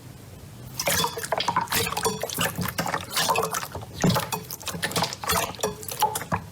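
Slime being squeezed and poked, making a run of wet squelches, pops and crackles. It starts about a second in and goes on in quick irregular clusters.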